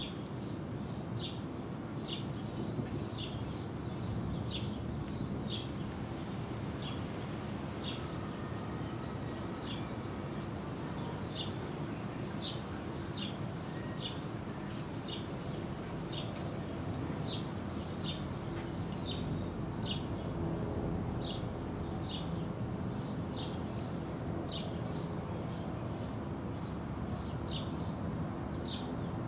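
A small bird chirping over and over, short high chirps at about one to two a second, over a steady low rumble of background noise.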